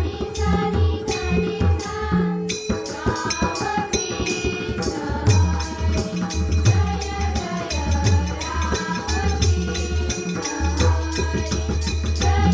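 Women's bhajan group singing a Marathi devotional bhajan, with drum and rattling hand percussion keeping a steady beat.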